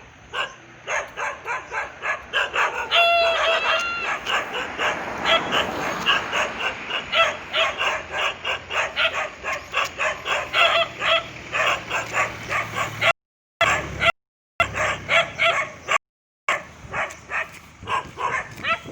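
Dog barking over and over in a fast, steady run of short barks, with one longer, higher drawn-out yelp about three seconds in. The sound cuts out briefly a few times in the second half.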